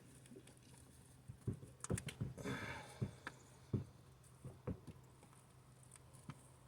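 Faint, scattered clicks and taps of hand tools on metal, with a short scrape about two and a half seconds in, as a stud that won't thread is worked into an engine's exhaust port hole.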